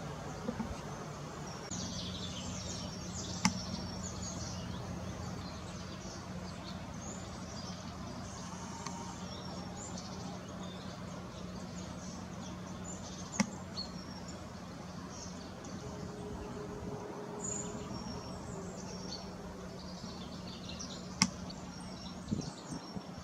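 Small birds chirping and twittering at a bird feeder in short high calls scattered throughout, with three sharp taps spread across the stretch. A steady low hum runs underneath.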